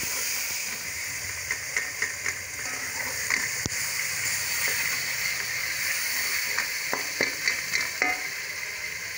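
Onion-tomato masala sizzling steadily in hot oil in a pot, with a spoon clicking and scraping against the pot now and then as it is stirred and fried.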